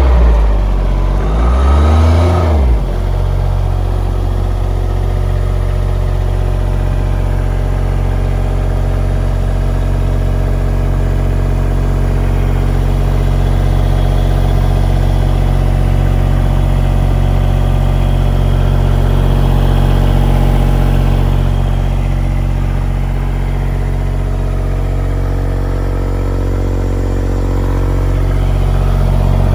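Airman PDS100SC diesel engine air compressor running just after starting: the engine speed swings up and down for the first couple of seconds, then settles into a steady run.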